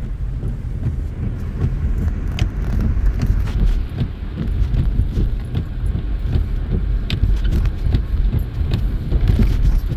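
Car cabin road noise while driving: a steady low rumble from the tyres and engine, with a few faint light clicks scattered through it.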